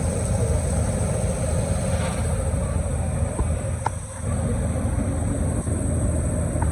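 Canal tour boat's engine running steadily, a continuous low rumble, with a brief dip in level about four seconds in.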